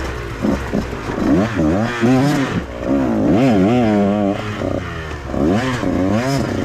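Dirt bike engine revving up and falling back over and over as the throttle is worked on and off.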